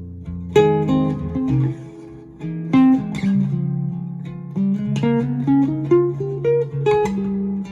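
Godin nylon-string guitar played through a Fender Tone Master Pro modeler, picking a single-note jazz solo line over a backing accompaniment of lower held bass and chord tones.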